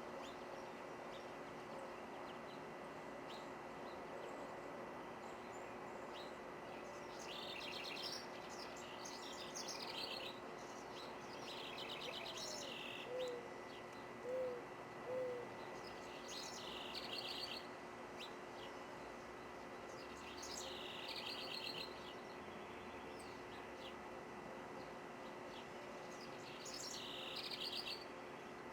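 A songbird singing short, rapid trilled phrases every few seconds. A few soft, low hooting notes from another bird come about halfway through.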